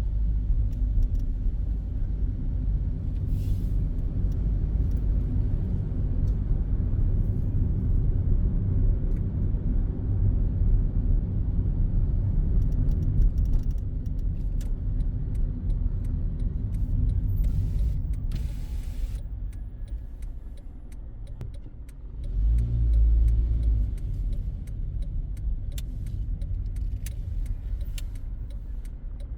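Car driving in city traffic, heard from inside the cabin: a steady low rumble of engine and tyres that eases off about twenty seconds in, swells again briefly, then settles lower.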